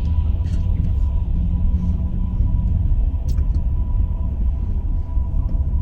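Car cabin noise while driving in slow traffic: a steady low rumble of engine and road, with a faint steady high tone over it.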